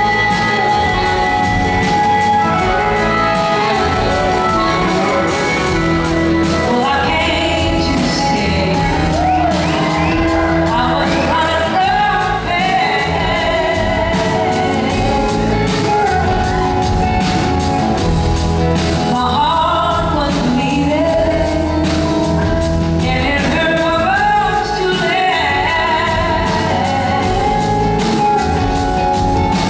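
Live band playing a slow soul-blues song in a large hall, with a lead voice singing long phrases over the band from several seconds in.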